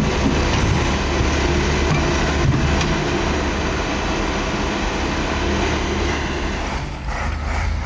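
Heavy vehicle engine running steadily with a deep low rumble, easing slightly near the end.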